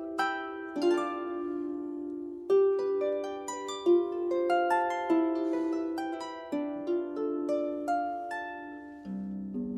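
Harp playing a slow melody of plucked notes that ring on and overlap as they fade, with lower notes coming in near the end.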